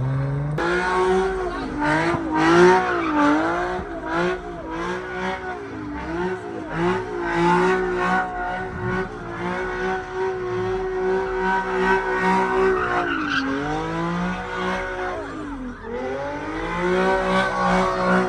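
Car engine held at high revs, its pitch wavering up and dropping and climbing again twice near the end, with tires squealing and skidding on pavement, as in a burnout or donuts.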